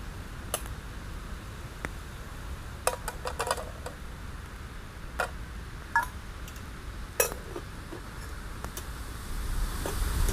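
Metal camp cookware and utensils being handled, with a dozen or so scattered clinks and knocks, one of them ringing briefly, over a low steady background. A rushing noise builds near the end.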